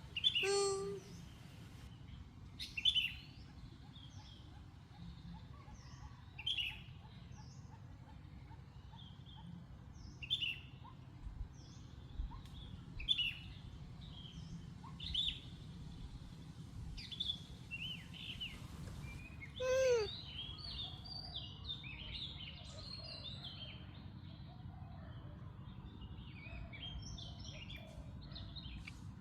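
Birds calling: short high chirps repeated every couple of seconds, then a busier run of chirping from about two-thirds of the way in, over a steady low background rumble.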